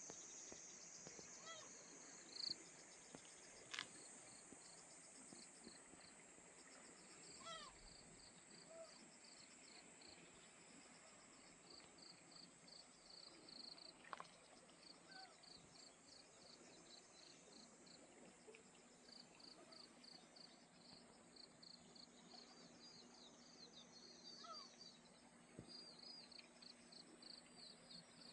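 Faint woodland morning ambience: insects chirping in a steady high hiss, a run of evenly repeated high chirps that becomes steadier about halfway through, and a few short bird calls here and there.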